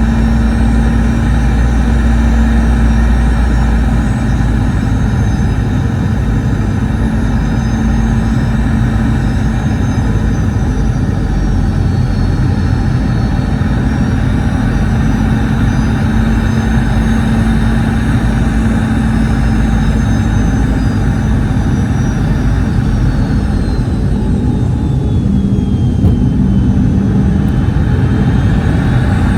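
Boeing 717 cabin noise heard from inside near the tail-mounted Rolls-Royce BR715 turbofans: a steady roar with a low hum and thin turbine whines that shift in pitch. The deep rumble eases about four seconds in, and the whine drops in pitch a few seconds before the end, as the engines' power changes.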